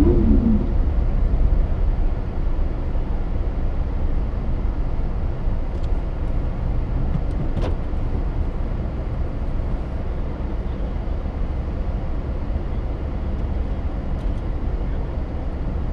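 Car engine idling low and steady, heard from inside the cabin as the car creeps forward and stops. A short squeak right at the start and a single click about halfway through.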